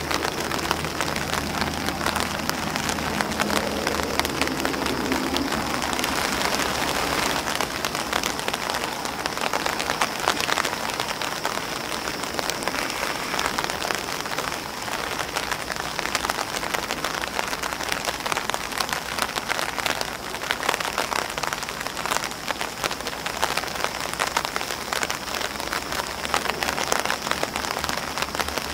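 Steady rain falling on an umbrella and on grass leaves: a dense patter with many sharp taps of single drops.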